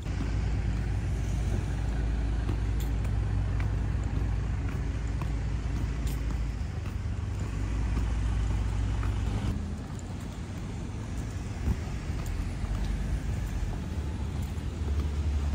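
Steady low rumble of a moving vehicle. The drone drops and changes about nine and a half seconds in, with faint light ticks above it.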